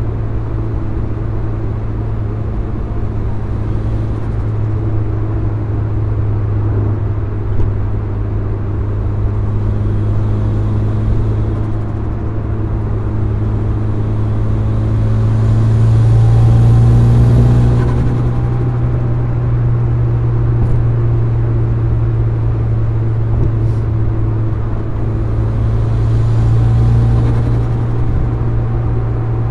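Mitsubishi Lancer Evolution VIII's turbocharged four-cylinder engine and road noise heard from inside the cabin while driving: a steady low drone. It swells and rises in pitch as the car accelerates about halfway through, and swells again near the end.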